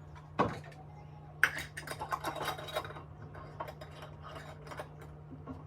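Kitchen clatter: a thump, then a sharp click and a quick run of clicks and knocks from utensils against pots and dishes, thinning out over the last couple of seconds.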